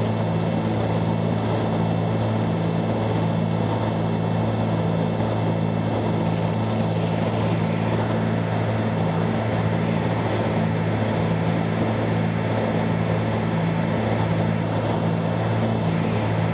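Cabin drone of a Cessna 310Q's twin piston engines and propellers in steady flight. It is an even, constant hum with a slow, regular pulse in its low tones.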